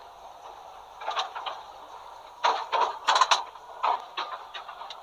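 Irregular sharp clacks and rattles from a Melbourne W-class tram in motion, heard from inside its cab, coming in clusters with the loudest bunch about halfway through.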